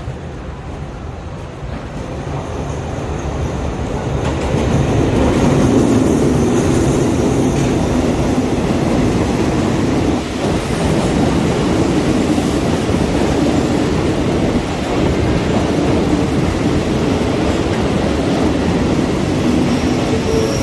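A diesel-hauled passenger train pulling into the station and rolling past close by. The rumble of the locomotive and wheels grows louder over the first five seconds, then holds steady as the carriages go by on the rails.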